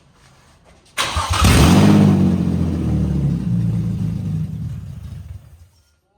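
First start of a 2003 Nissan Skyline 350GT's 3.5-litre V6: about a second in, the engine suddenly catches and revs up, then its speed sags and it dies near the end. It does not keep running.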